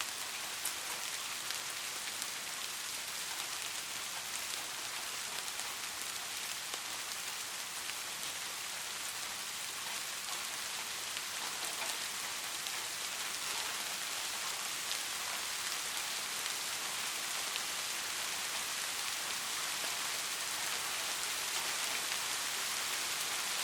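Steady rainfall, an even hiss of drops with scattered faint individual drop ticks, growing a little louder toward the end.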